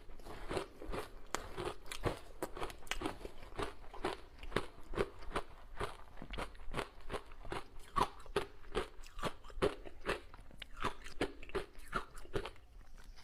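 A person biting and chewing ice dusted with matcha powder: quick, sharp crunches, about three or four a second, that go on without a break.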